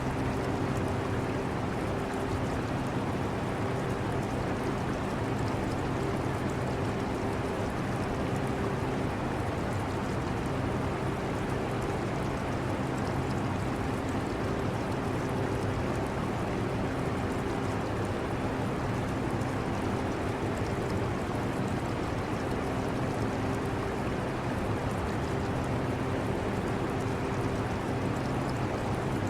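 Air conditioner running steadily: a constant rush of air with a low hum, mixed with the trickle of aquarium water.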